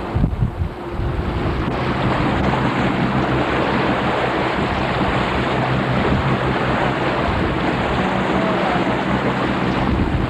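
Boat under way: wind buffeting the microphone over rushing water, with a steady low hum beneath.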